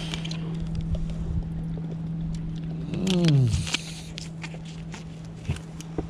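Steady low hum of a boat motor, with a loud falling tone about three seconds in and a few light clicks near the end.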